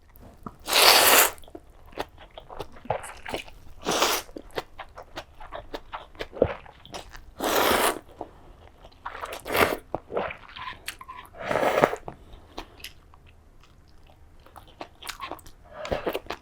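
Close-miked eating of tonkotsu ramen: steady chewing and crunching with many small clicks, broken by about five loud half-second slurps.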